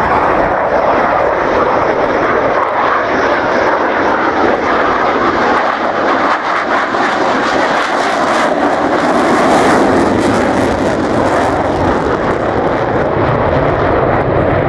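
Aircraft engine noise from a display aircraft flying overhead. It is a loud, steady rushing sound that swells brighter in the middle and then eases off a little.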